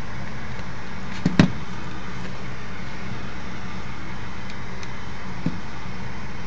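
Gas furnace's induced draft motor running steadily with a low hum. Two sharp clicks come close together about a second and a half in, and a fainter one near the end.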